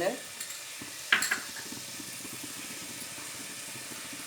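Onion-tomato masala sizzling steadily in a hot clay pot, just after coriander powder is added, with one short clink of a utensil against the pot about a second in.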